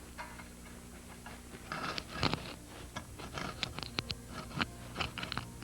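Hand pruning saw cutting a branch on a young black walnut tree: irregular scraping strokes and sharp clicks that start a little under two seconds in.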